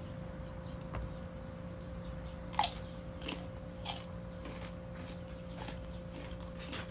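Crisp, unripe mango being bitten and chewed, giving a few separate crunches, the loudest a little over halfway in. A steady low hum runs underneath.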